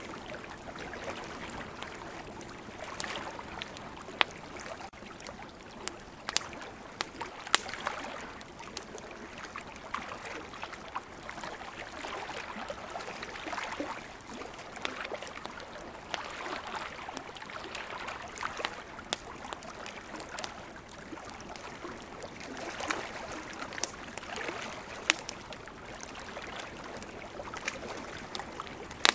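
Wood campfire crackling, with sharp pops at irregular moments, over a steady wash of ocean waves that swells and ebbs.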